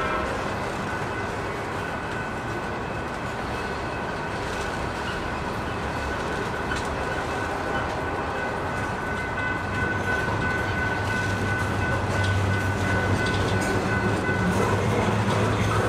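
Freight train of tank cars and covered hoppers rolling past: a steady rumble of steel wheels on rail, with thin, steady high-pitched tones over it. A low hum grows in from about ten seconds in, and the sound gets slightly louder toward the end.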